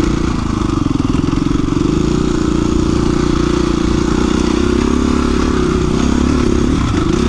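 2017 KTM 350 EXC-F dual-sport's single-cylinder four-stroke engine running steadily under way, its pitch dipping a little about a second in and wavering with throttle changes near the end.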